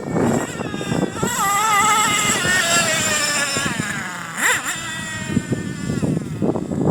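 Thunder Tiger S28 nitro two-stroke glow engine of an RC monster truck revving up. Its high, buzzing pitch climbs about a second in, holds and wavers, then slowly falls, with a quick dip and rise about halfway through.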